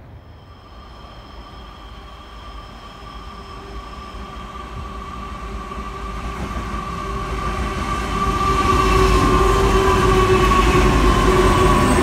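A Pacific National freight train led by an 81 class diesel-electric locomotive approaches and passes close by. Its rumble grows steadily louder over the first eight or so seconds and then stays loud as the locomotive goes past, with a steady high ringing over it.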